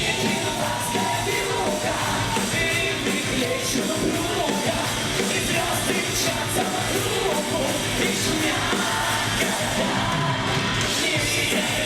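Live band music playing steadily, with voices singing at moments.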